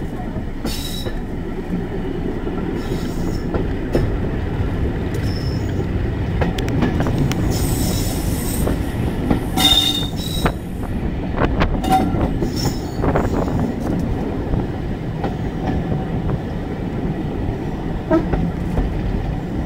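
2-EPB train running along the track: a steady low rumble of wheels on rail with scattered clicks and a few short wheel squeals, the sharpest about ten seconds in.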